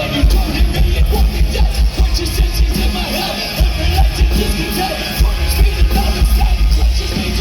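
Live rock band playing loud, with a heavy bass and drums filling the hall.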